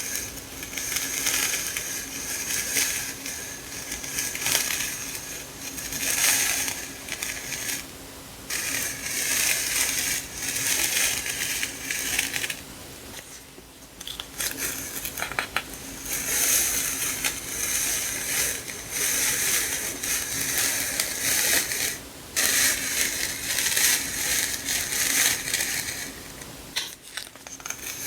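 Sticker sheets and their plastic packaging rustling and crinkling as they are handled, in bursts of a second or two with short pauses, over a faint steady hum.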